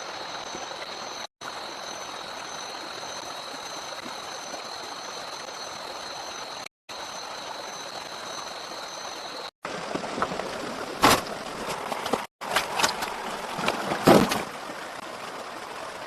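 Steady rushing of running water with a thin, steady high insect whine over it. From about ten seconds in, the whine is gone and a run of irregular knocks and splashes follows, the loudest about eleven and fourteen seconds in.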